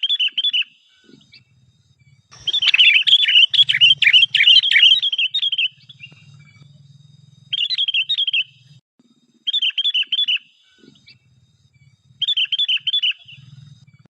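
Sooty-headed bulbul (kutilang) calling: short chattering phrases of about a second, repeated every two seconds or so, with a longer, louder stretch of song from about two to six seconds in.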